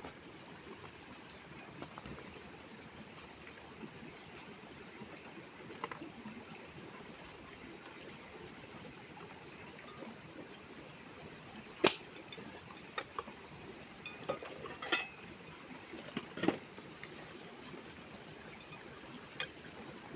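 Water running steadily, with a few sharp knocks, the loudest about twelve seconds in and more between about fourteen and seventeen seconds in.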